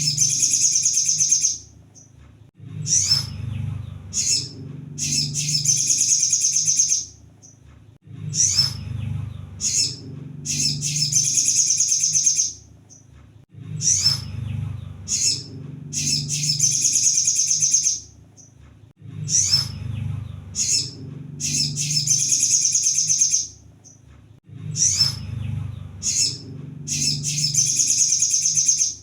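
Crimson sunbird (kolibri sogon) song played as a looped lure recording: a few sharp high chirps, then a rapid high trill lasting a second or two, repeating about every five and a half seconds. A low hum runs under the song and drops out in the pauses.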